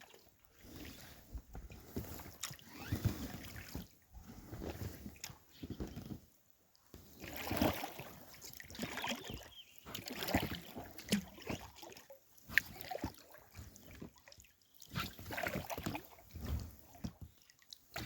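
Paddle strokes from a packraft dipping into a river, a splash and slosh about every two to three seconds.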